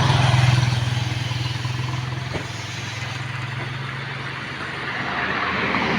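A motor vehicle's engine running with a steady low hum, loudest about half a second in and then fading away over the next few seconds, with a single sharp click partway through.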